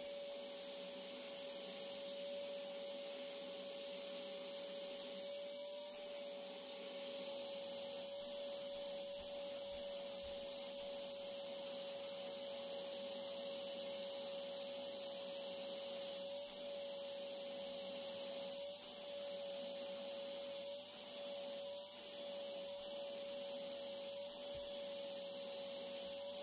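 Vacuum cleaner running steadily with a high motor whine, its pitch dipping briefly a few times.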